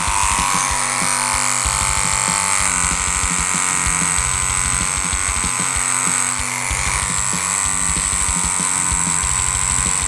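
Steady buzz of an electric tattoo machine (the Hornet version 2) running, under loud background music with fast drumming.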